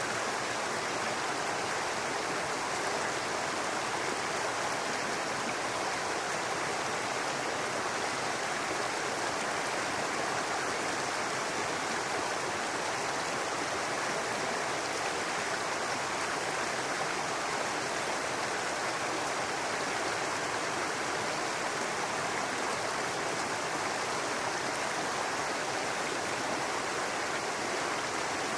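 Babbling brook: water running steadily over rocks, an even rushing.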